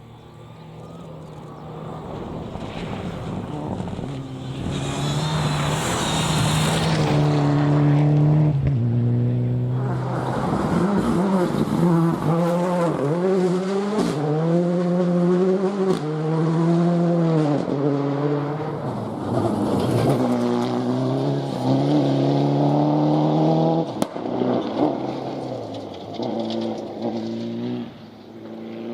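Rally car at speed on a stage, its engine revving hard and dropping again over and over through gear changes and lifts as it comes closer, goes by and pulls away. The sound builds over the first several seconds and fades near the end.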